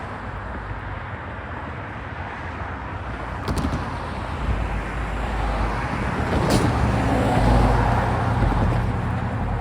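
A heavy vehicle going by: a steady rushing noise, with a low engine hum that builds from about halfway through and two short sharp clicks.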